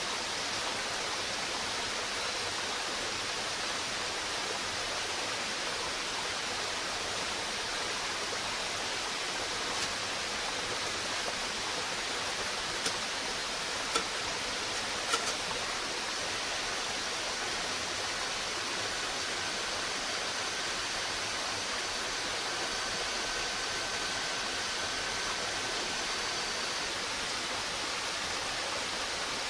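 Steady rushing of running water, even and unbroken, with a few sharp clicks near the middle and a faint thin high tone through the second half.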